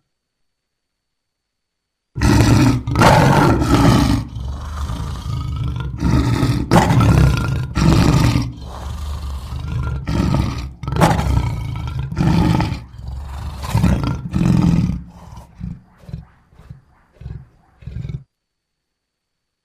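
Lion roaring: a bout of loud, deep roars starting about two seconds in, trailing off into a series of short grunts that stop shortly before the end.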